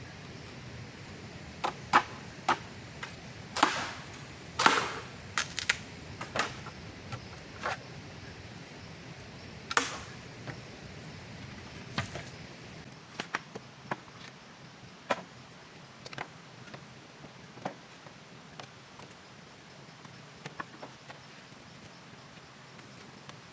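Irregular sharp knocks and clicks, a couple of dozen, loudest and closest together in the first half and then sparser, over a steady background hiss.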